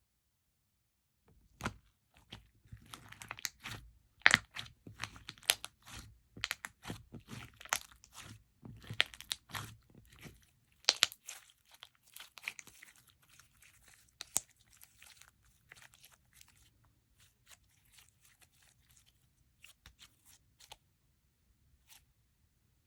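Slime being kneaded and squeezed by hand: a dense, irregular run of sticky clicks, pops and crackles, thinning to scattered clicks after about eleven seconds.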